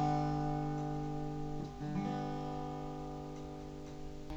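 Guitar chords strummed and left to ring out: one chord fading, a new strum about 1.7 s in, and another near the end, with no singing.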